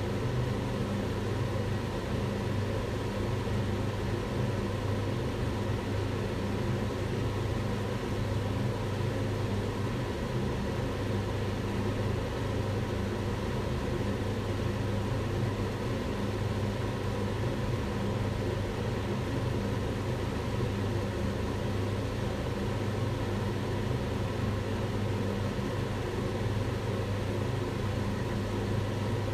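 Kitchen extractor hood fan running steadily, a low motor hum under a broad rush of air.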